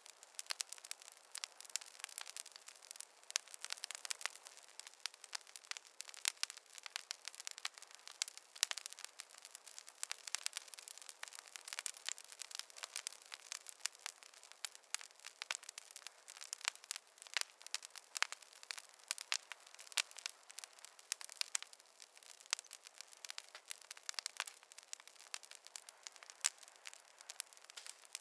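Wood fire crackling: dense, irregular snaps and pops of burning logs.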